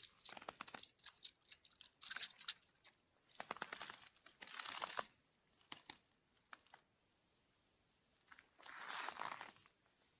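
Intermittent crunching and rustling: scattered sharp clicks and a few short noisy bursts, with quiet gaps between them.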